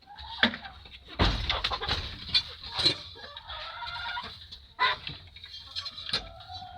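Chickens clucking, among a few sharp knocks and scrapes, the heaviest a low thump about a second in.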